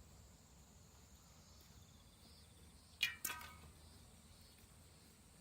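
Steady high insect chirring, broken about three seconds in by two sharp knocks about a quarter second apart that ring briefly like a hard object being struck or set down.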